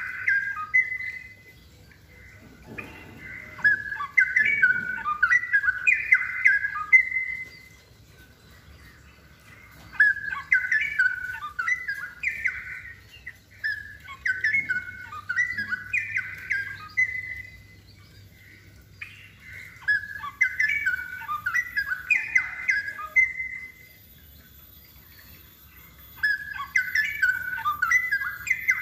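Straw-headed bulbul (cucak rowo) singing: loud, rich warbling phrases of fast-changing notes, each lasting a few seconds, repeated about five times with short pauses between them.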